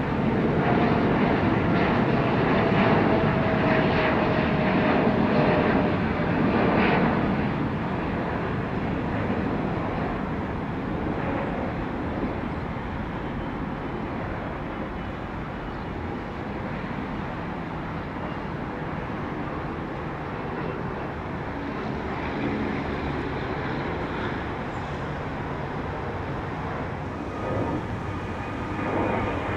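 Jet airliner's engines on departure: a loud rushing rumble with a faint whine sliding slowly down in pitch over the first several seconds, then easing to a steadier, lower rumble as the aircraft draws away.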